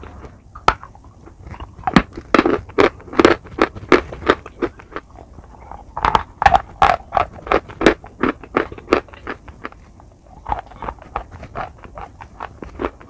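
Close-up chewing of edible chalk softened into a wet paste: crunches and sticky mouth clicks in quick runs, with a short pause about three quarters of the way through.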